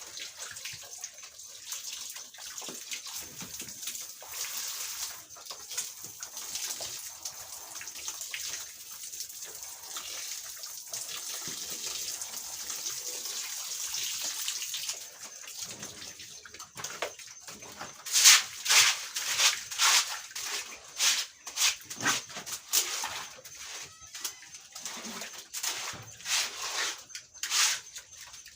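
Cleaning a pig pen: a steady hiss of water through the first half, then a run of sharp, quick scrubbing or sweeping strokes, with pigs grunting now and then.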